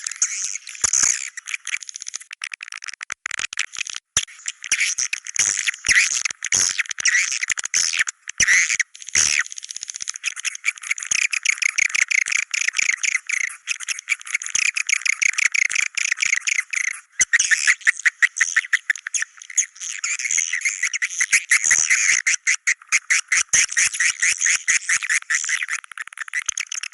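Swiftlet calls: rapid, dense twittering trills in quick succession with a couple of brief pauses, a swiftlet 'Goa China' cave-type call recording with only the high chirps and no low sound.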